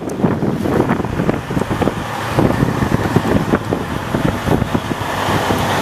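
Wind buffeting the microphone in irregular gusts over a running vehicle engine.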